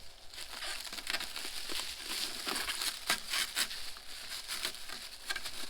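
Protective plastic film being peeled off a new headlight, crinkling and crackling irregularly.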